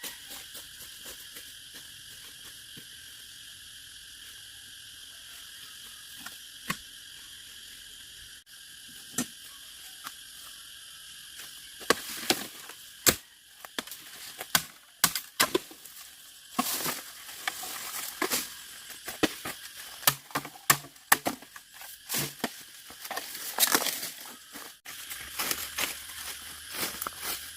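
Irregular sharp clicks, snaps and knocks, sparse at first and thick and loud from about halfway through, over a steady high drone.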